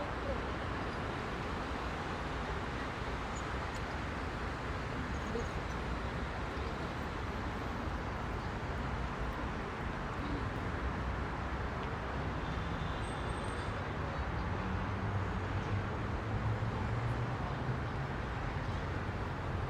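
Steady dense rush-hour road traffic: a continuous wash of engines and tyre noise from many cars, with a heavier vehicle's engine growing louder about two-thirds of the way through.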